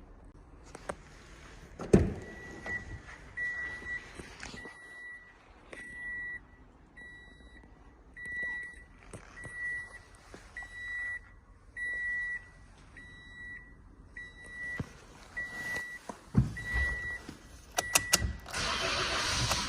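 A car's dashboard warning chime beeping in an even, steady rhythm, about one high beep every three-quarters of a second, in a Toyota Vitz. A knock comes about two seconds in, before the beeping starts, and a few clicks and a burst of noise come near the end.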